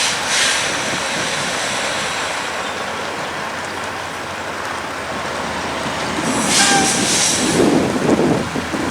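Heavy haulage trucks moving past, a steady rumble of engines and tyres with strong wind buffeting the microphone. A short burst of high hiss comes about six and a half seconds in.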